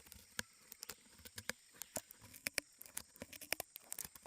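Leafcutter ants cutting pieces out of leaves: a faint, irregular crackle of small sharp clicks and snips, several a second.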